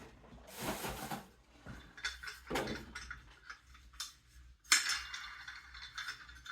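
A thin clear polycarbonate RC truck body rattling and crinkling as it is handled, in several short scraping bursts, the sharpest starting suddenly near the end.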